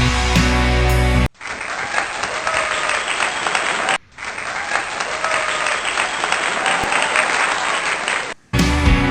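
Background music stops abruptly about a second in and gives way to crowd applause, with a short break about four seconds in. The music cuts back in near the end.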